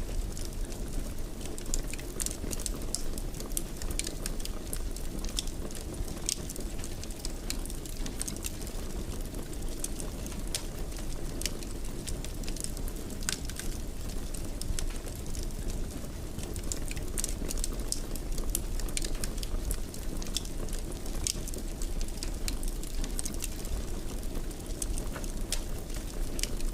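Wood fire burning in a fireplace: a steady low rush of flame with frequent small, sharp crackles and pops.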